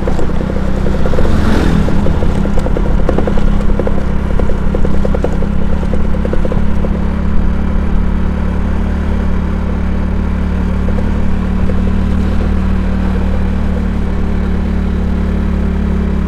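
Motorcycle riding along, heard from an action camera on board: a steady low engine hum with wind and road noise. There is some rattling in the first few seconds.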